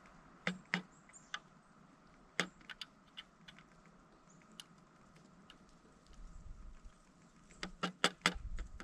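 Pileated woodpecker pecking at a suet feeder: irregular sharp taps, a few scattered ones and then a quick run of louder taps near the end. A low rumble sits under the last few seconds.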